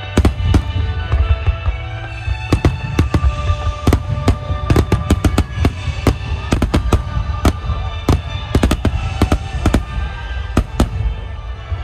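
A dense barrage of aerial firework shells bursting in quick succession, many sharp bangs over a continuous low rumble; the bangs thin out near the end. Music with sustained tones plays along with them.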